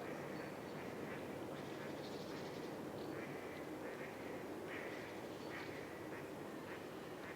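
Ducks quacking repeatedly, short calls following one another throughout, over a steady background hiss.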